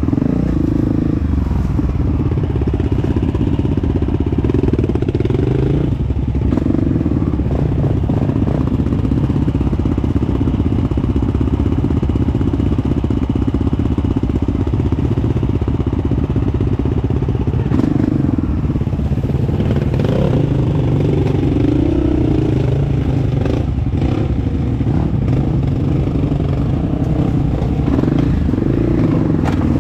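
Honda CRF dirt bike engine running under way on a trail ride, its note rising and falling a little with the throttle. A few knocks and clatters come through, around a quarter of the way in and again near two-thirds of the way.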